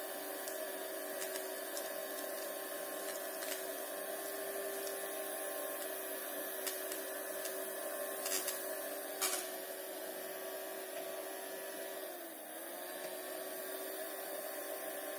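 Small battery-powered DC motor spinning the fan of a homemade water-bottle vacuum cleaner, running with a steady whine. Its pitch dips briefly about twelve seconds in and then recovers, and a couple of light clicks come about eight and nine seconds in.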